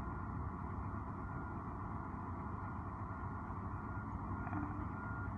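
Heavy diesel engine running steadily at idle, a constant low rumble with no change in pitch.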